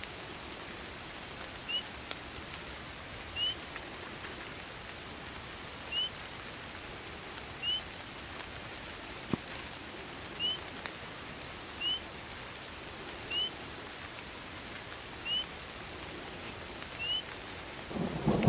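Steady rain hiss with a bird's short rising call repeated about ten times, one every one and a half to two and a half seconds. Thunder starts rumbling just before the end.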